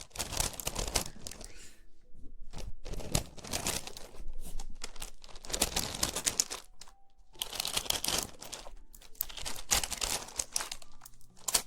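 Close-miked crinkling and rustling of handled material, in bouts of a second or two with short pauses between.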